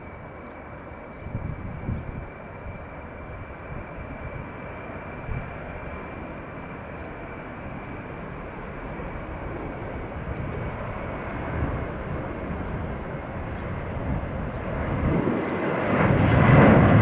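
Boeing 767-300 freighter's jet engines running at takeoff power during the takeoff roll. A steady rushing noise with a faint high whine grows louder and is loudest near the end.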